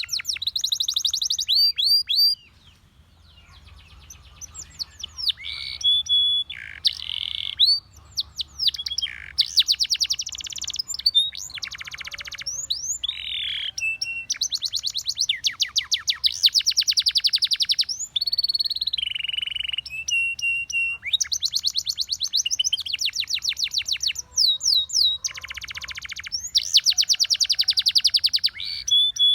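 Russian singing canary singing a long, continuous song of rapid trills and repeated whistled phrases with quick pitch sweeps. The song breaks off briefly a couple of seconds in, then resumes.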